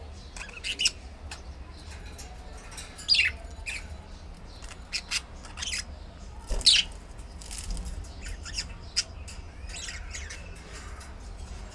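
Birds squawking and chirping: short, sharp calls at irregular intervals, the loudest about three seconds in and again past the middle, over a steady low hum.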